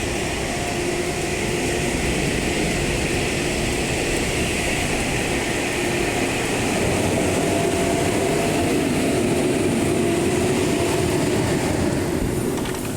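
Automatic car wash machinery running: a steady rushing noise with a faint hum, dropping off just before the end.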